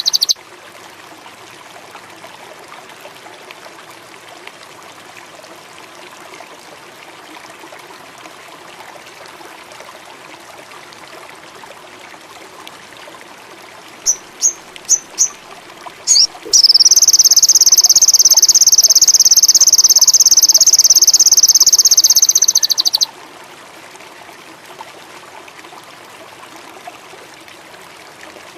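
Sogon indigo songbird giving four short high chirps, then a loud, rapid high-pitched trill lasting about six seconds that stops abruptly. A steady hiss like a trickling stream and insects runs underneath.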